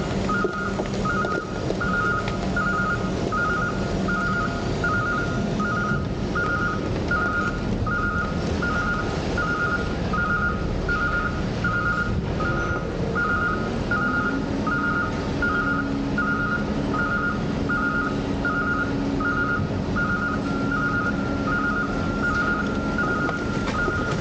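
A heavy vehicle's reversing alarm beeps steadily over the running diesel engine and machinery noise of a garbage truck at a waste transfer station. The engine note steps up in pitch about halfway through.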